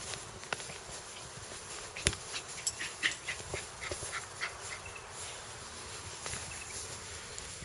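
A dog's sounds: scattered sharp clicks, the loudest about two seconds in, and a run of short high squeaks in the middle, over a hissy background.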